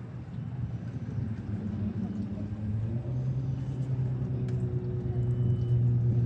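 An engine's steady low hum, growing steadily louder as it draws nearer.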